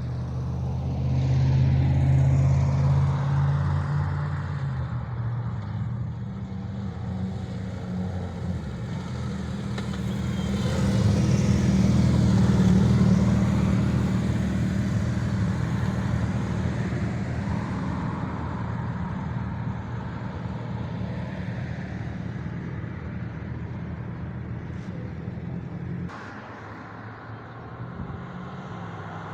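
A group of motorcycles riding past on the road, their engine sound swelling up twice, loudest about two seconds in and again about twelve seconds in, before falling away with a sudden drop near the end.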